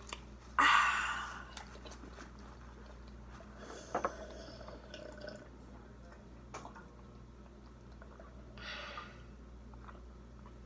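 People eating crab legs and pasta close to the microphone: chewing with a few sharp clicks, a loud short rush of noise about a second in and a softer one near the end.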